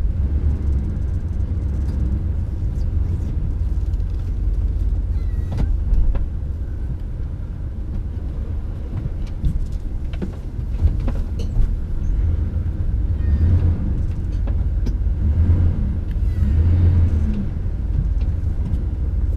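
Camper van heard from inside the cab, a steady low engine and road rumble as it moves over the campsite ground, with scattered knocks and rattles.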